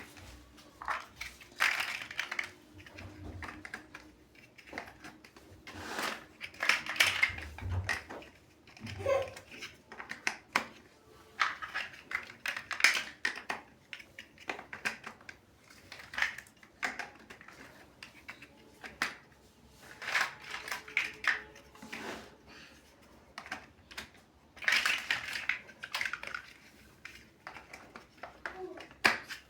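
Plastic building bricks clicking and clattering in irregular clusters as pieces are handled and pressed together.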